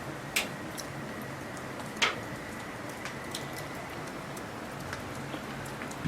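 Graupel pellets ticking on surfaces over a steady hiss of falling precipitation, with two louder sharp clicks, one about half a second in and one about two seconds in.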